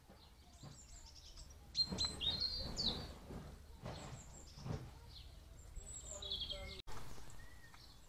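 Birds chirping, with quick high calls that slide in pitch, loudest about two seconds in and again around six seconds. Under them is a steady low rumble of wind on the microphone.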